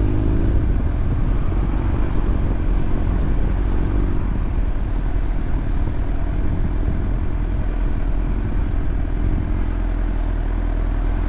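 Honda CBR1000RR inline-four sportbike engine running at a steady, even speed while riding, under a dense low rushing noise.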